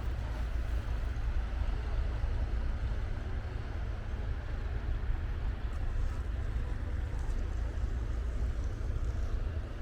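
Steady low rumble of wind buffeting the camera microphone outdoors, with a faint hiss above it.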